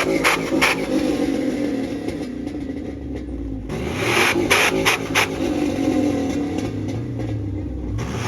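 A vehicle engine revving up and down, with a few sharp cracks near the start and again about four to five seconds in.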